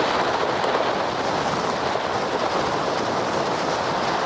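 Steady rushing of an ice yacht's runners gliding over the ice at speed, mixed with wind on the microphone.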